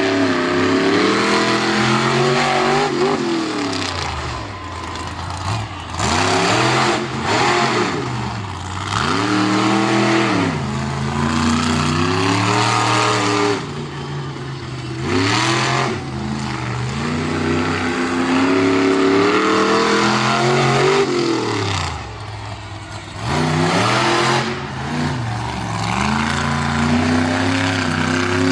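Monster truck's engine revving hard, its pitch climbing and dropping back over and over as the throttle is worked.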